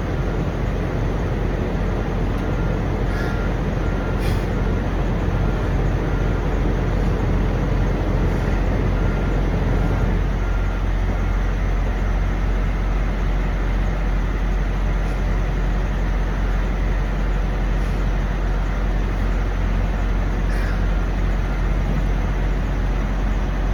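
Steady low rumble of idling semi-truck diesel engines and passing traffic, easing slightly about ten seconds in.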